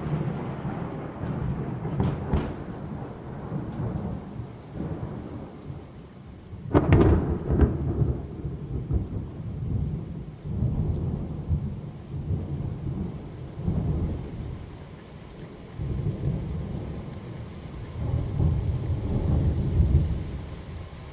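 Thunderstorm with steady rain. A sharp, close thunderclap cracks about a third of the way in, and low thunder keeps rumbling and rolling in repeated swells.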